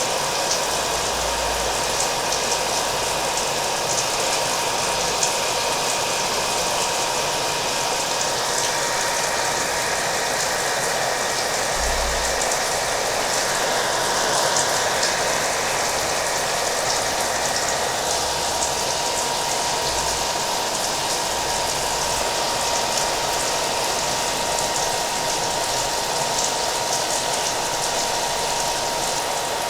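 Steady hair dryer blowing with a constant whine, mixed with the hiss and patter of rain.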